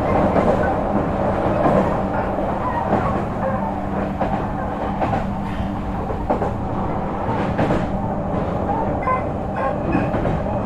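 Odakyu 3000 series electric train running at speed, heard from inside the car: a steady rumble of wheels on rail with a few sharp clicks from the rail joints.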